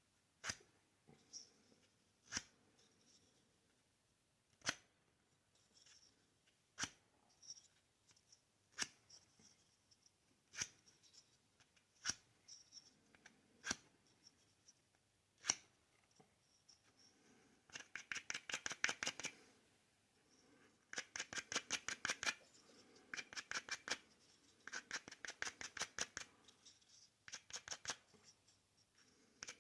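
Fine-grit sandpaper being rubbed by hand over a basswood handle, in quick short strokes that come in four bursts of a second or two each in the second half. Scattered single light clicks come before the bursts.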